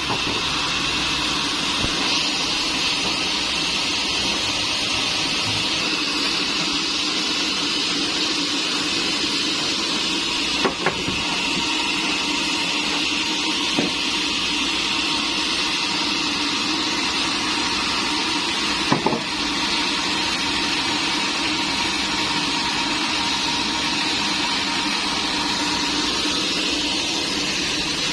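Sawmill machinery running steadily with a constant whine and hum, with a few sharp knocks of wood or metal about two, eleven, fourteen and nineteen seconds in.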